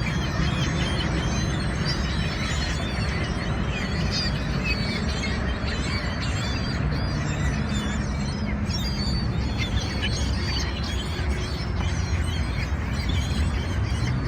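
Many birds calling in quick, overlapping chirps and cries, over a steady low rumble.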